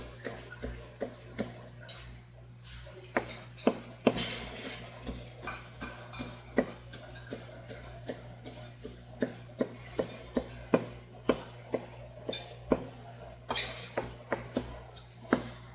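Kitchen knife knocking against a cutting board in irregular sharp strokes, about two a second, as a flounder is cut up bone-in for sekoshi sashimi, over a steady low hum.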